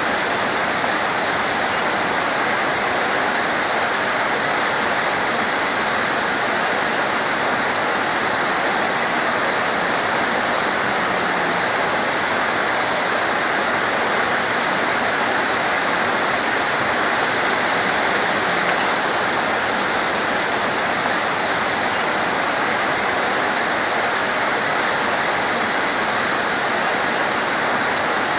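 Heavy torrential rain falling steadily as a dense, unbroken hiss, with a couple of faint high ticks.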